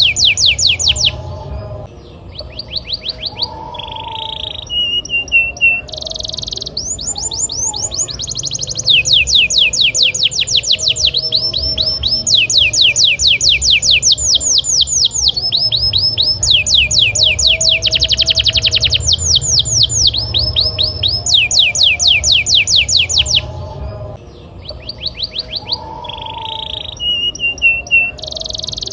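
Domestic canary singing vigorously in long rolls of rapid, repeated falling notes. One trill phrase gives way to another every few seconds, with short steady whistled notes between some phrases.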